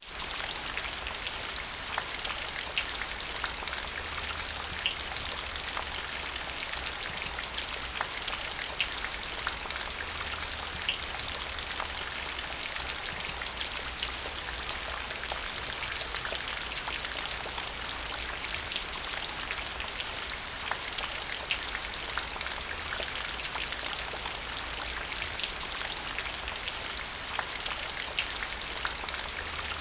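Steady rain falling: an even hiss with many separate drop ticks scattered through it.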